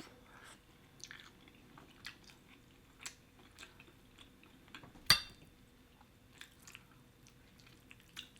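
Close-miked chewing of a mouthful of shrimp Alfredo angel hair pasta: soft, irregular wet mouth clicks and smacks. One much louder sharp click about five seconds in.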